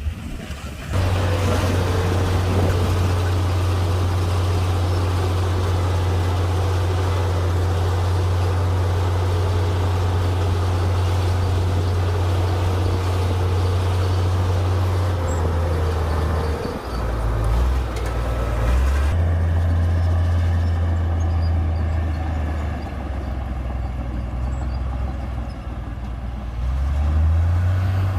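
Komatsu D58P bulldozer's diesel engine running under load, a steady low drone. The engine note shifts and dips about halfway through and rises again near the end.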